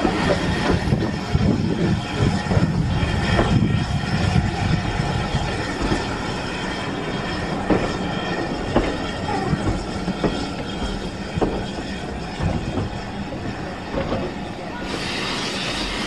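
A train hauled by an LMS Ivatt Class 2MT 2-6-0 steam locomotive rolling past close by: a steady rumble of wheels on rail with scattered sharp knocks and clicks, loudest at first as the engine goes by, then the coaches. A hiss comes in near the end.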